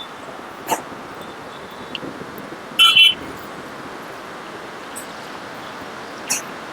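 A short high-pitched electronic beep, two quick pulses about three seconds in, over a steady hiss of gym background noise, with a few light clicks or knocks.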